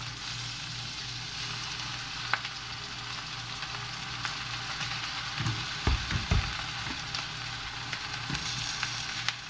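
Salted duck egg yolk and oil sizzling steadily in a hot frying pan, with a few soft low thumps about six seconds in.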